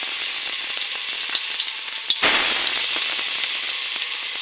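Garlic-ginger paste frying in hot oil: a steady sizzle with small crackles and pops. A little past halfway there is a sudden louder burst of sizzling that fades over about a second.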